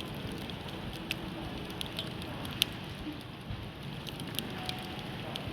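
Burning firewood: a steady hiss with irregular sharp crackling pops, the loudest about two and a half seconds in.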